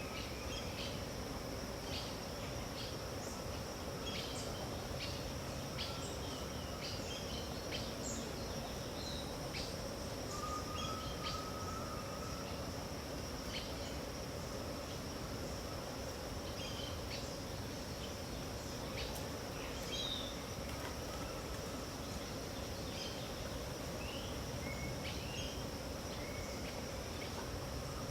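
Dawn wetland ambience: a steady high-pitched insect drone over constant low background noise, with many short bird chirps scattered throughout and a brief lower call about ten seconds in.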